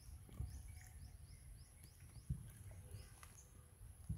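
A small bird chirping over and over in short, high notes, a few a second, over a low outdoor rumble, with two dull thumps, one midway and one near the end.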